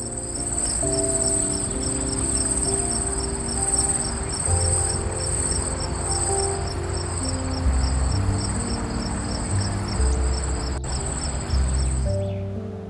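A steady high insect trill with a regular pulse, about three a second, over soft background music with sustained low notes; the trill stops about a second before the end.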